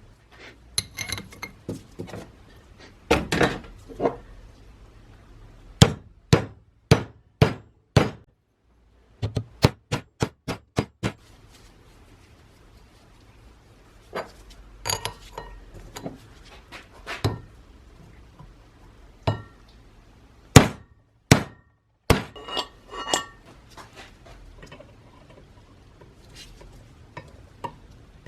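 Hammer taps and clinks on metal parts, struck irregularly with several quick runs of taps; some strikes ring briefly.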